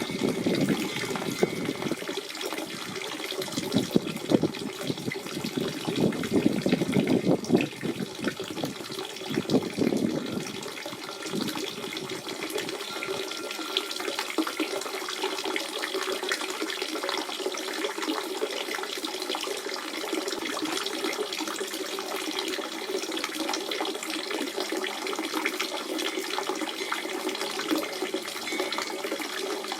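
Natural spring water running and splashing in a continuous flow. It gurgles unevenly for the first dozen seconds or so, then settles into a steadier, smoother rush.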